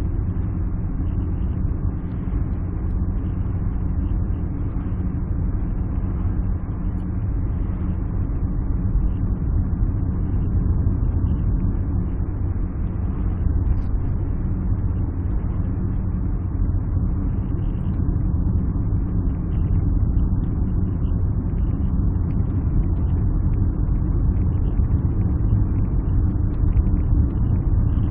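Alfa Romeo 156 on the move, heard from inside the cabin: a steady low drone of engine and road noise that holds even throughout.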